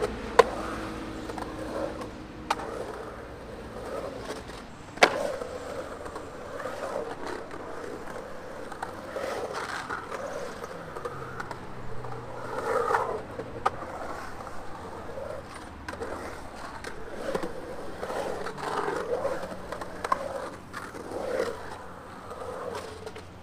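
Skateboard wheels rolling and carving on concrete transition, the rolling noise swelling and fading with each turn. Two sharp clacks of the board or trucks hitting, one just after the start and one about five seconds in.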